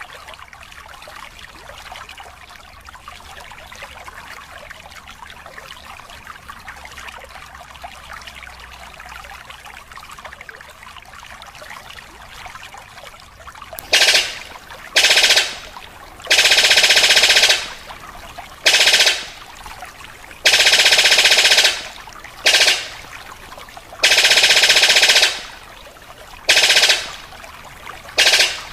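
Steady hiss for about the first half, then loud repeated bursts of a rapid, buzzy trilling call, each lasting from half a second to two seconds with short pauses between, typical of a recorded songbird call played for training caged birds.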